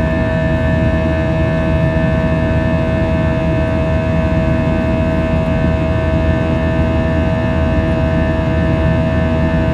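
Airbus A321's jet engines running at high power, heard inside the cabin: a steady low rumble with a strong, even whine held at one pitch.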